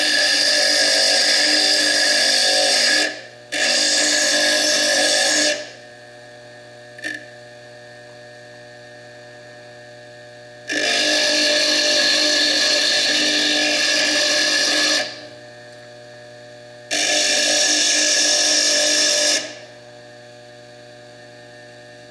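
Foredom bench lathe running with a steady hum, broken by four loud spells of grinding a few seconds each as a fire agate is pressed against its small spinning slitting disc, grinding down the clear chalcedony layer over the stone's colour layer.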